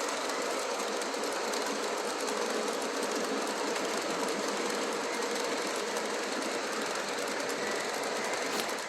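Model train running steadily along the layout track: an even whir and rumble of locomotive motors and rolling wheels. It dies away at the very end as the train stops, with a car off the track.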